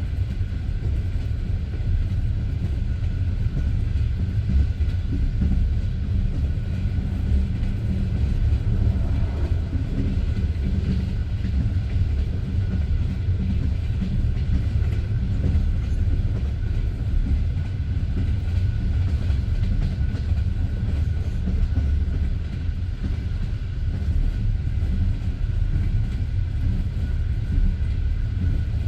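Passenger train carriage running along the track, heard from inside the coach: a steady low rumble of the wheels on the rails with a faint clatter.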